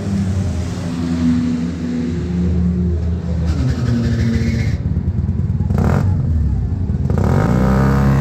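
Citroën 2CV race car's air-cooled flat-twin engine running at a standstill and being revved: the pitch dips about three seconds in and climbs sharply near the end. A brief sharp clack a little before six seconds.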